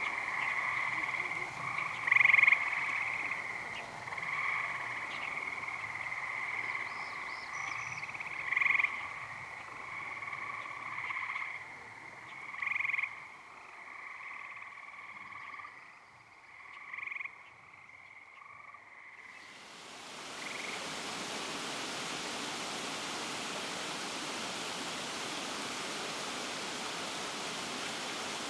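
A chorus of frogs calling in a steady trilling drone, with single louder calls standing out every few seconds. About two thirds of the way in it cuts to the steady rush of flowing water.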